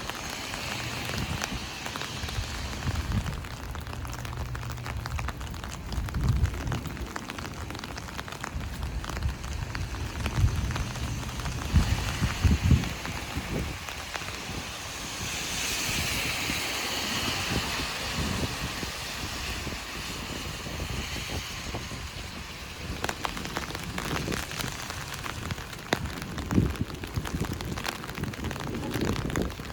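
Heavy rain drumming on an umbrella, a steady hiss with scattered low thuds. A louder hiss swells for several seconds around the middle, then falls back.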